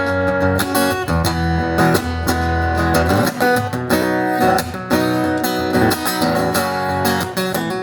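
Acoustic guitar strummed in a steady rhythm, playing a song's introduction.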